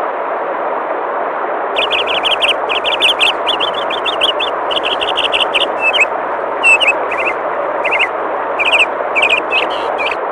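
Steady rushing of flowing water, with a small songbird starting about two seconds in and calling in quick runs of short, high chirps, grouped with brief pauses.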